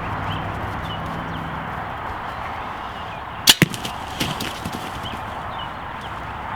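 A bow shot at a turkey: one sharp, loud crack of the string and arrow about halfway through. A few smaller knocks and thumps follow within the next second as the hit bird flops.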